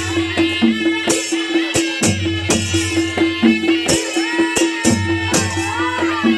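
Nepali naumati/panche baja ensemble playing: a reedy shawm melody with gliding notes over a fast, steady beat of drums and clashing cymbals, with a held drone tone underneath.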